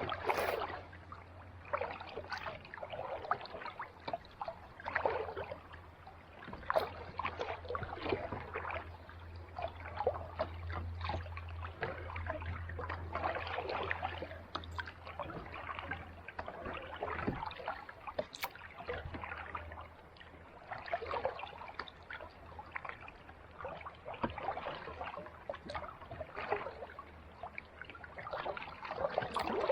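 Kayak paddle dipping and pulling through calm sea water, a soft splash and trickle every second or two, over a low steady hum.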